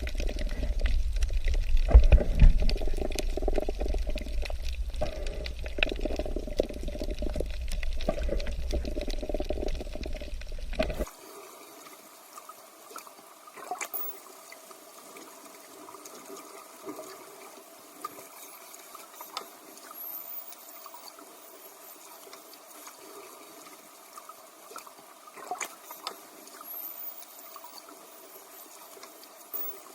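Underwater recording of breathing below the sea surface: a loud, rushing bubbling with a low rumble. About eleven seconds in it cuts off suddenly to a much quieter underwater hush with scattered clicks and a few short, very high squeaks.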